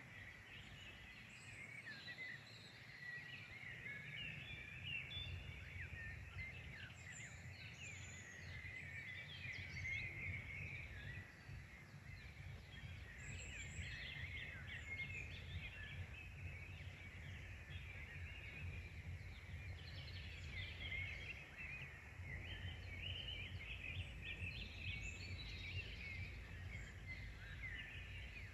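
Many small birds chirping and singing at once in a dense, continuous chorus, over a low steady rumble.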